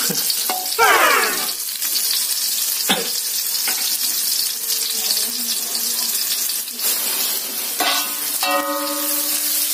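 Chopped garlic, shallots and chilli sizzling as they fry in oil in an aluminium wok, with a metal spatula scraping and knocking against the pan now and then. A short falling whine comes about a second in, and a brief held tone near the end.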